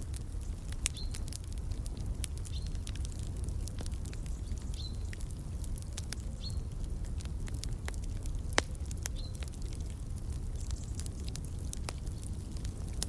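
Wood fire crackling: scattered sharp pops over a steady low rumble, one pop louder than the rest about two-thirds of the way in. A bird gives five short high chirps, about two seconds apart.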